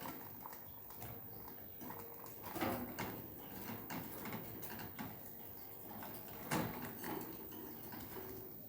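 Budgies tapping and pecking, a scatter of small clicks and taps with two louder knocks, at about two and a half and six and a half seconds in.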